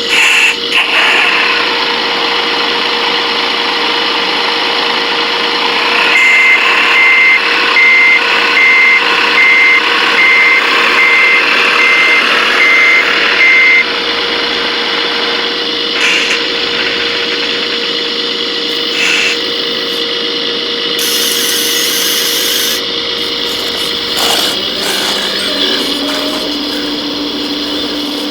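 Electric motors and hydraulics of 1:14-scale RC construction machines whining steadily. From about six seconds in to about fourteen, a reversing beeper sounds about one and a half times a second. A lower steady motor tone joins near the end.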